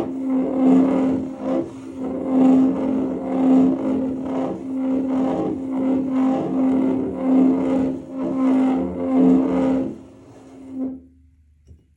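A bottle rubbed across a table top, its friction setting up a resonant hum: a steady low tone over a rough scraping that swells and fades about once a second with each push. It stops about ten seconds in and dies away just after.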